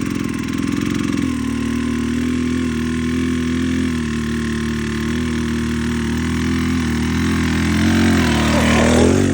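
Enduro motorcycle engine, just started, running steadily at idle. Near the end it wavers and revs up as the bike pulls away from a standstill.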